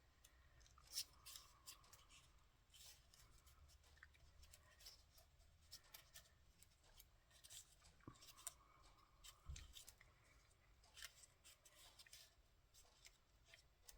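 Faint scattered snips, clicks and rustles of paper craft pieces being cut with scissors and handled.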